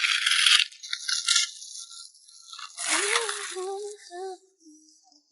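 Plastic packaging rustling and crinkling in handling, with a loud burst at the start, a shorter one about a second in and another about three seconds in. A pop song with a sung vocal line plays under the later rustle.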